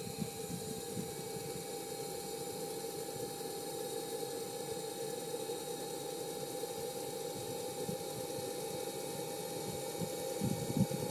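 Radio-controlled model helicopter running with a steady, unchanging whine.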